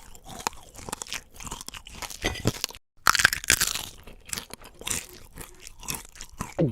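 Crunchy chewing and biting sounds, many quick crackling crunches in close succession. They break off for a moment a little before three seconds in and resume louder.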